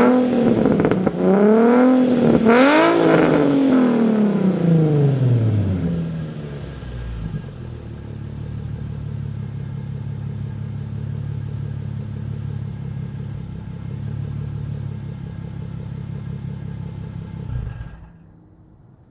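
Nissan 350Z Nismo's V6 through a Tomei Expreme Ti titanium exhaust, revved several times in quick blips that fall back to a steady idle, then switched off near the end.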